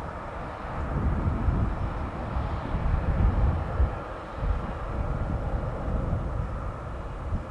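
Boeing 777 jet engines running as the airliner taxis off the runway after landing: a steady jet whoosh over an uneven low rumble that swells and fades.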